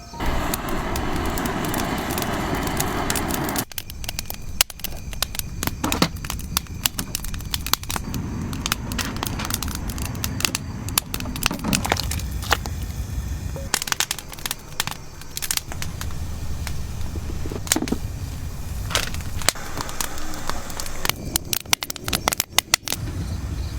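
Wood bonfire crackling, with many sharp irregular pops and snaps over a low rumble. A steady rushing noise fills the first few seconds before the crackling takes over.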